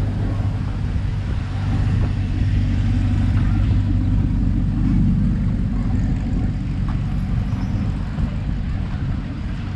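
An engine running steadily nearby, a low continuous rumble and hum that swells slightly a few seconds in.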